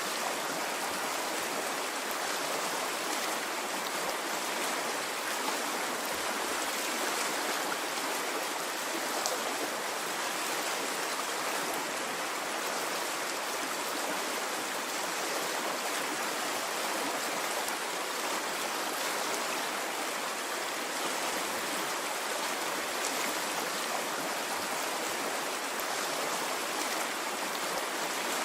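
Water of a flowing stream rushing steadily, an even, unbroken sound with no rise and fall of waves.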